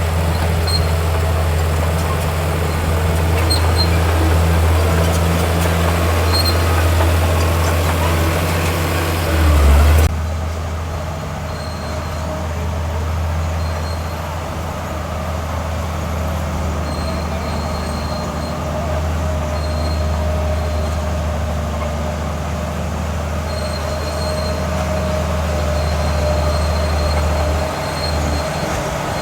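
Heavy diesel construction machinery running steadily with a deep, even engine hum, briefly louder just before a third of the way in.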